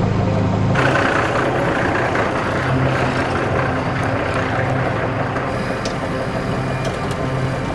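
Heavy diesel machinery engine running steadily, its sound shifting about a second in.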